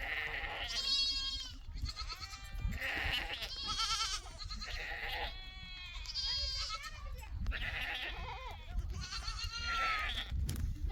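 A flock of sheep bleating, with many calls overlapping one another and several animals calling at once.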